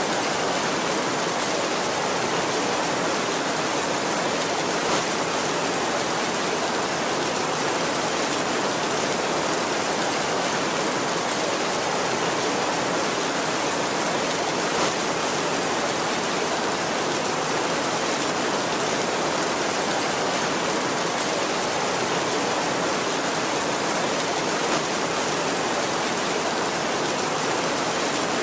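Heavy rain falling steadily on a tin roof, an even dense hiss with a few slightly louder single drop ticks. No thunder.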